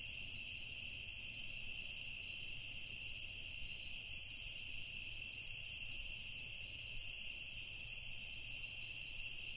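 Steady chorus of crickets, a continuous high trill, with a faint low rumble underneath.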